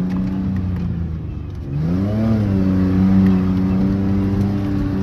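Ford Ranger pickup's engine running loud through a half-removed, leaking exhaust while driving: it holds steady revs, eases off about half a second in, revs back up around two seconds in, then holds steady again.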